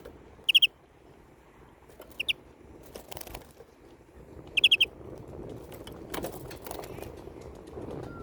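European greenfinch giving short bursts of quick, high chirps three times: three notes, then two, then four. Scattered clicks and rustling between the calls.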